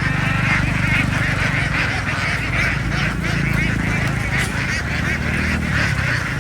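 A large flock of domestic ducks quacking continuously, many calls overlapping into a dense chorus, over a steady low hum.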